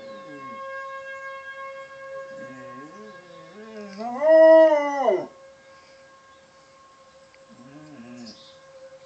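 A dog howling along with an outdoor tornado warning siren. The siren holds a steady tone throughout. The dog howls several times: the loudest and longest howl comes about four seconds in, rising then falling in pitch, and a shorter one follows near the end.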